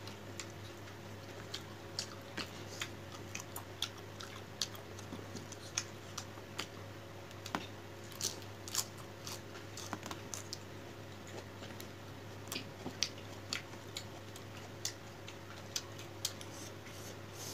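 Close-up chewing and wet mouth smacks while eating fish curry: irregular small clicks and smacks, a few a second, over a steady low hum.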